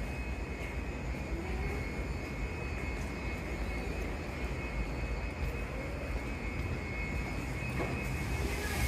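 Steady low rumble with a faint steady whine, the background noise of an electric commuter train.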